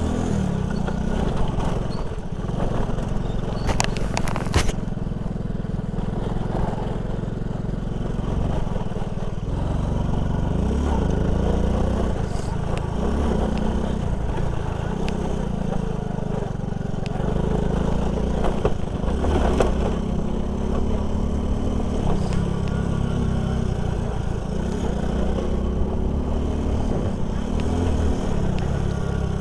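Honda C90 step-through motorcycle's small single-cylinder four-stroke engine running under way, its pitch rising and falling with the throttle. A brief sharp rattle about four seconds in.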